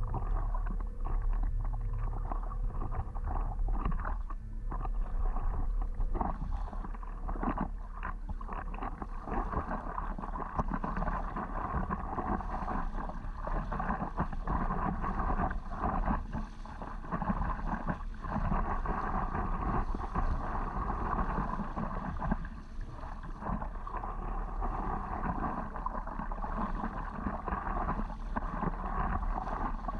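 Water splashing and lapping around a stand-up paddleboard out on the water, with wind rumbling on the microphone.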